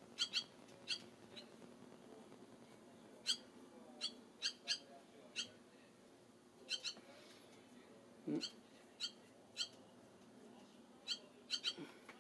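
Barn swallow giving short, sharp, high chirps, about twenty of them at uneven intervals, some in quick pairs.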